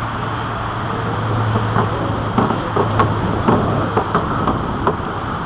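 Riding noise on a bicycle: a steady rushing hum with scattered light knocks and rattles.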